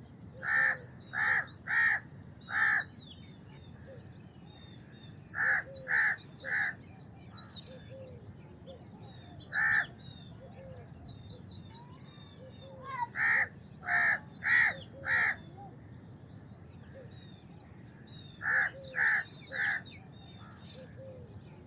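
House crows cawing in runs of three to five calls separated by pauses of a few seconds, with a single caw between runs. Smaller birds chirp continuously in the background.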